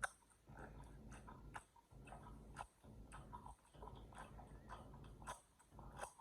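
Faint sips and gulps of drinking water, with small irregular clicks, coming in short spells broken by brief pauses about a second apart.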